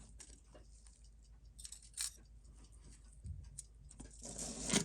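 Scattered small metallic clicks and taps of watchmaker's tweezers and tools working on the parts of a chronograph watch movement during disassembly, irregular rather than a steady tick, with a slightly louder handling noise near the end.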